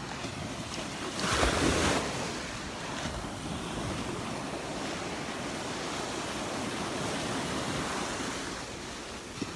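Surf washing onto a sandy beach with wind buffeting the microphone, as a steady rushing noise with one louder rush about a second in.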